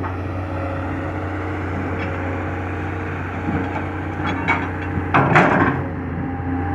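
Excavator's diesel engine running steadily, with a short burst of knocking and scraping about four to six seconds in.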